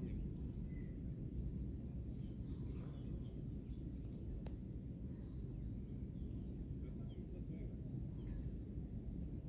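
A steady, high-pitched chorus of insects, crickets or cicadas, over a low, steady rumble, with a few faint bird chirps.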